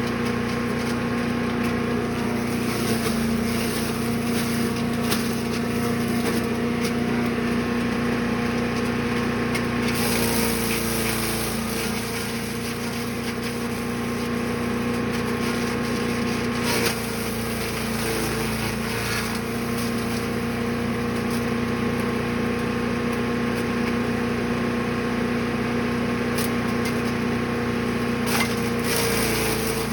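Small gasoline engine of a chipper/shredder running steadily at a constant speed, with a few brief sharp knocks over it.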